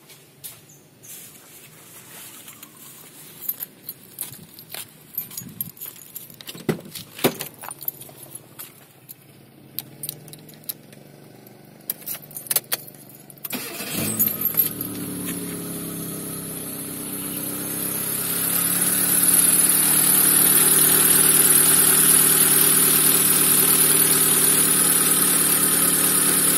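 Clicks and keys jangling, then about halfway through a Proton car's engine cranks briefly and catches, with the starter powered by a 16 V 500 F supercapacitor charged from a small 12 V motorcycle battery. The engine then runs steadily, growing louder a few seconds after starting.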